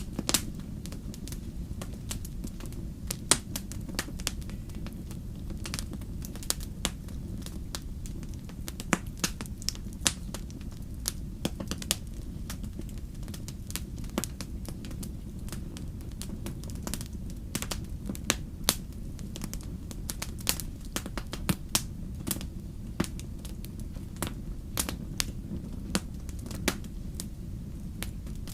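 Fire crackling: irregular sharp pops and snaps, a few of them louder, over a steady low rumble of the flames.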